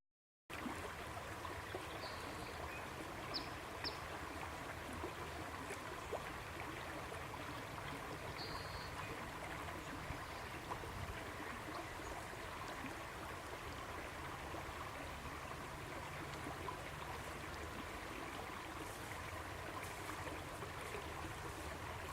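Steady, even outdoor background noise with a faint steady hum and a few faint, short high chirps now and then.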